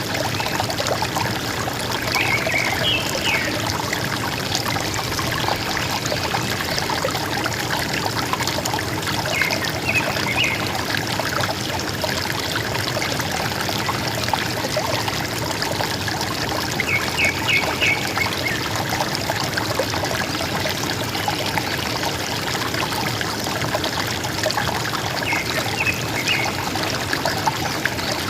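River water running steadily, with a bird calling short bursts of a few quick high notes about every seven or eight seconds.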